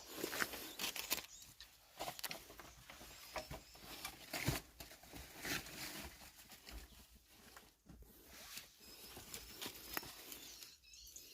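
Faint, irregular rustling and small clicks and crackles from hands working while a glue bird trap is set.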